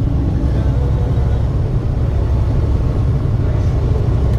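A truck driving: steady, continuous low engine and road rumble.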